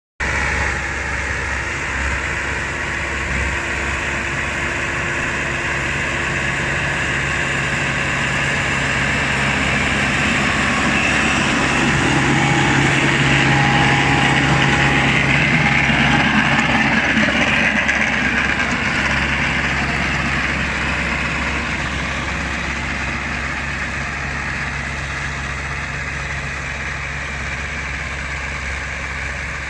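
Tractor engine running steadily while working a rotary bed tiller. It grows gradually louder toward the middle, then slowly quieter again.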